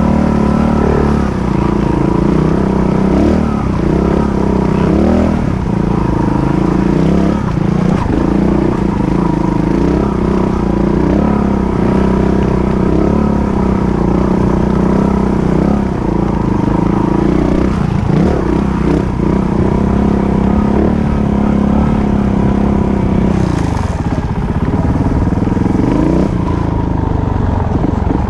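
Off-road motorcycle engine running continuously from the rider's own bike, its pitch repeatedly rising and falling as the throttle opens and closes along the trail.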